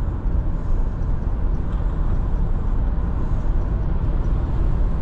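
Car in motion heard from inside: a steady low rumble of engine and road noise.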